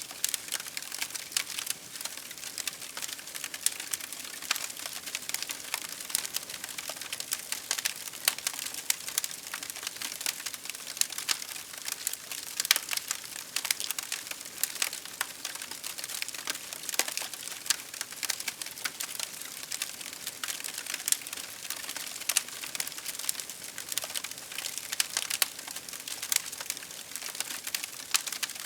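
Fire crackling steadily: a dense run of small sharp pops and snaps over a soft hiss, with a few louder pops here and there.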